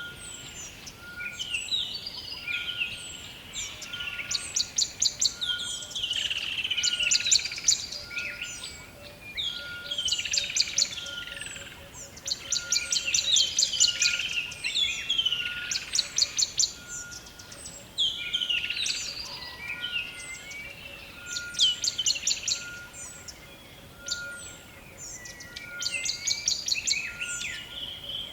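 Rainforest dawn-chorus-style ambience: many birds calling at once with chirps, swooping whistles and rapid trills recurring every few seconds. Under them a short steady note repeats about once a second.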